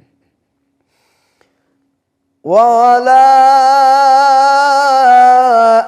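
A man reciting the Quran in a melodic chanted style: after about two and a half seconds of silence his voice comes in on one long held note with a slight waver.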